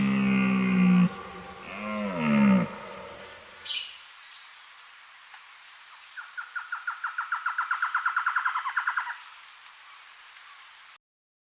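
Wild animal calls: a drawn-out low call, then a falling call, a short high chirp, and then a rapid trill of about ten notes a second that grows louder before stopping; the sound cuts out suddenly near the end.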